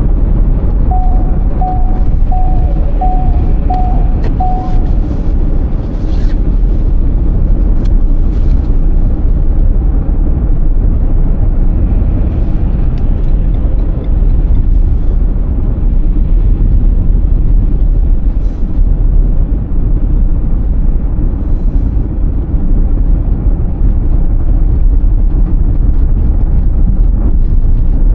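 Car driving in a snowstorm: a loud, steady low rumble of road and engine noise. A few seconds in come about six short, evenly spaced beeps of one pitch.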